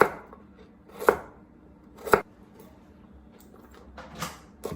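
Kitchen knife chopping food on a cutting board in slow single strokes about a second apart, with a pause and then two quicker strokes near the end.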